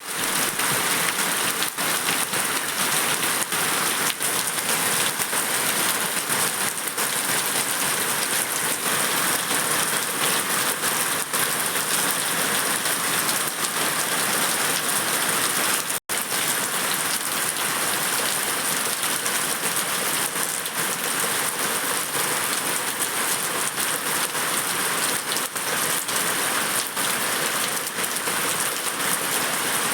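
Steady rain falling, a constant hiss with many separate drop hits; it drops out for an instant about halfway through.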